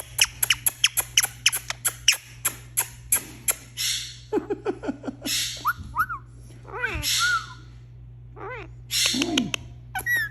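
Indian ringneck parakeet vocalizing: a quick run of sharp clicking chirps for about three seconds, then a few breathy hisses and short squeaky calls that bend up and down in pitch.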